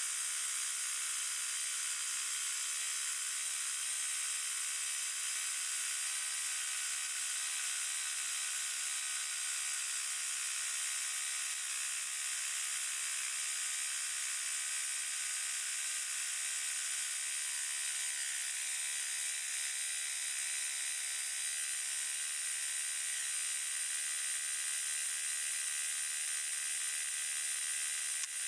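Sawmill running steadily, its blade cutting through a log.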